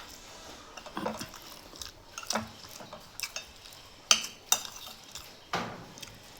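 Utensils clinking and knocking against a dish while eating, about six separate sharp clinks spread over a few seconds.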